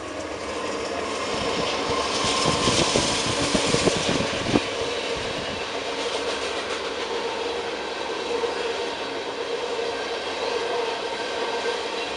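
Freight train passing close by on the tracks. It grows louder over the first two seconds as it arrives, with a run of sharp wheel clacks about two to four seconds in, then settles into a steady rumble and rattle as the cars roll past.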